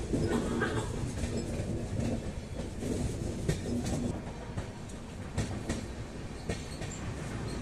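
A moving passenger train heard from inside a coach: a steady rumble and rattle of wheels on track, with occasional sharp clicks as the wheels cross rail joints.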